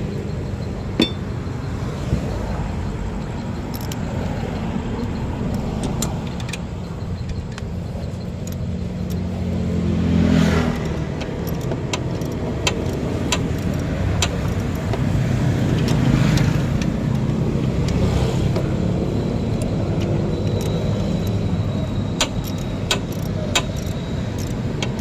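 A motor vehicle engine running steadily, getting louder about ten seconds in and again around sixteen seconds, with scattered sharp clicks and clinks.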